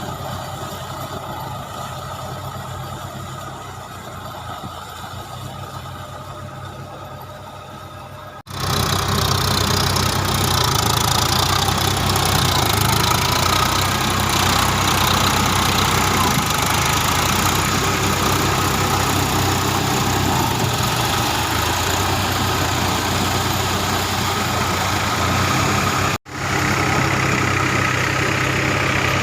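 Tractor diesel engine running steadily. About eight seconds in the sound cuts abruptly to a much louder, closer engine, with another brief break near the end.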